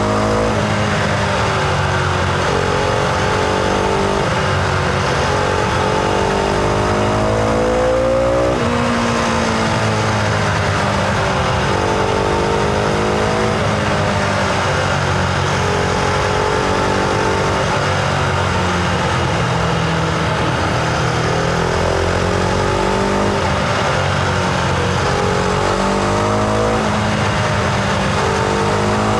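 Husqvarna Vitpilen 701's single-cylinder engine heard from on board while riding. Its revs climb and then drop sharply again and again as the bike accelerates and shifts gear.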